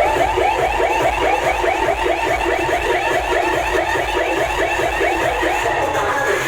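Electronic siren-like alarm effect played loud through a DJ sound system: a fast warbling tone, about five up-and-down sweeps a second, over a steady low bass rumble.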